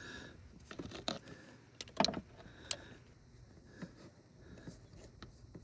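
A wrench worked on an engine bolt as its torque is re-checked: a few scattered, irregular metal clicks and taps, the sharpest about two seconds in.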